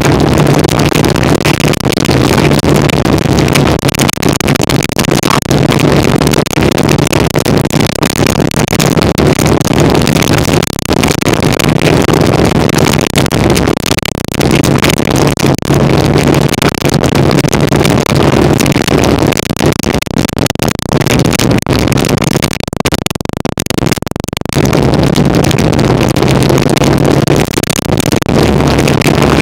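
1975 Kawasaki KZ400 parallel-twin motorcycle engine running under way, heard from a bike-mounted camera, with a steady engine note that eases off for a few seconds about two-thirds through and then comes back. Many short knocks and rattles from the rough dirt road run through it.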